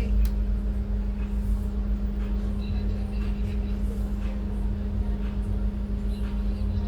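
Scania N280UD CNG double-decker bus heard from the top deck while under way: a steady engine drone with a constant hum and low road rumble, unchanged throughout.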